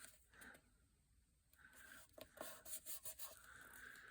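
Faint rustling and rubbing of paper as a book page is folded and creased into a small pocket, coming in short scrapes.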